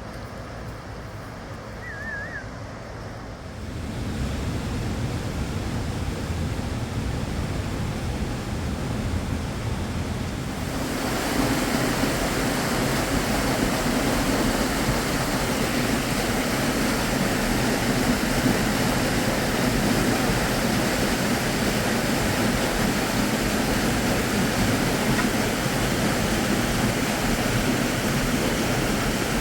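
Fast-flowing river water rushing, a steady roar that grows louder about four seconds in and again about ten seconds in.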